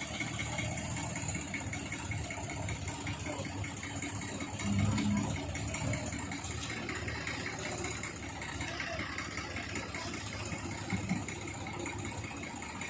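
Diesel engine running steadily at idle, with a brief louder pitched sound about five seconds in.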